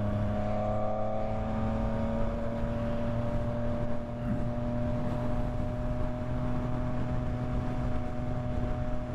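Yamaha MT-09's three-cylinder engine running at a steady road speed under the rider, its note easing slightly in the first couple of seconds and then holding steady.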